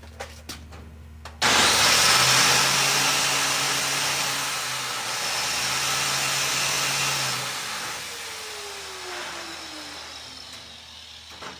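Angle grinder switched on with a sudden start about a second and a half in, running steadily for about six seconds, then switched off and spinning down, its pitch falling as it slows. A few light clicks come before it starts.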